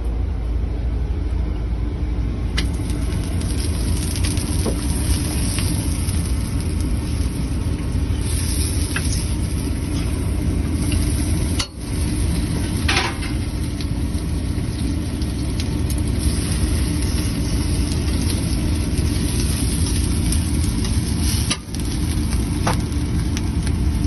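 Birria tacos frying on a food-truck griddle, a steady sizzle over a continuous low mechanical drone, with a few light taps and scrapes.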